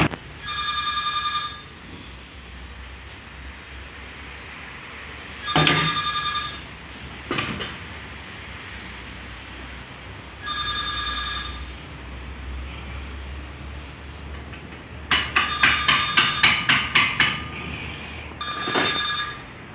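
Air-powered wrench on the brake caliper bolts, run in short bursts of about a second with a high metallic ringing whine. Two-thirds of the way through comes a longer burst of rapid hammering, about three or four strokes a second, as it works on a tight bolt.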